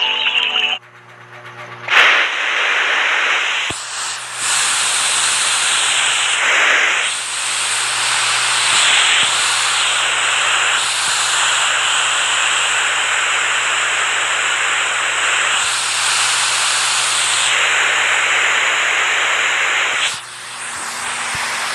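Rushing water: a loud, steady hiss, like a waterfall or rapids, that comes in about two seconds in and turns quieter near the end.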